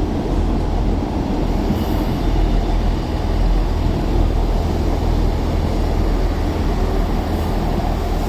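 Two-unit Class 158 diesel multiple unit train moving past at low speed, its underfloor diesel engines running with a loud, steady low rumble.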